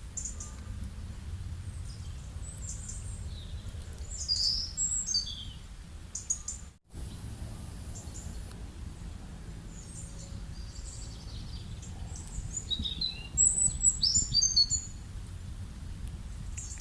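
Small birds chirping and calling over a steady low background rumble, with two louder clusters of quick, high calls about four seconds in and again about thirteen seconds in. The sound cuts out for a moment near seven seconds in.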